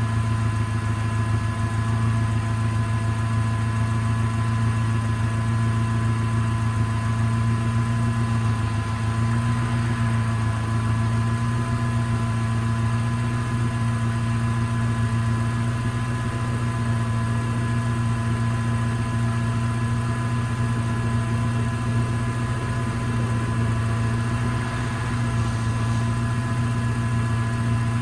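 Honda K20 inline-four, freshly swapped into a Civic, idling steadily just after its first start, with a faint steady whine above the engine note.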